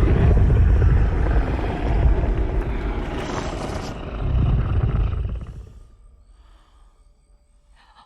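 Loud, deep creature roar from a giant anaconda, a film monster sound effect. It starts suddenly, swells again about four and a half seconds in, then dies away.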